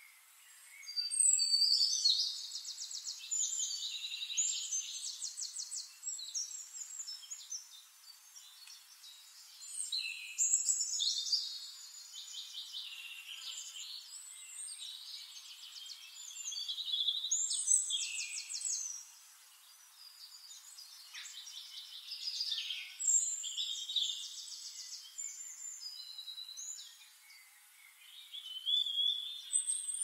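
Songbirds singing: about five bouts of high, fast trills and chirping phrases, each a few seconds long, with quieter gaps between them.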